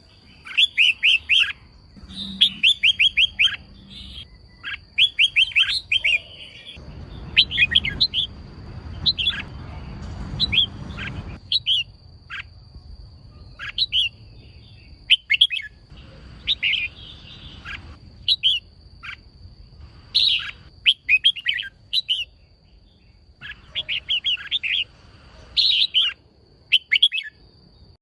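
Female red-whiskered bulbul calling in quick runs of short, sharp chirps, repeated every second or two; a female call of the kind keepers play to rouse male bulbuls into singing. A faint steady high whine runs behind it.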